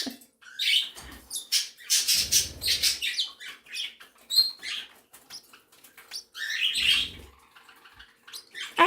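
Mixed flock of pet birds (budgies and other small parrots) chirping and squawking, many short, high calls scattered throughout.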